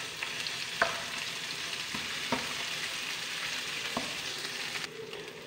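Ginger-garlic paste sizzling in hot oil in a nonstick frying pan as it is stirred with a spatula, with a few light taps of the spatula on the pan.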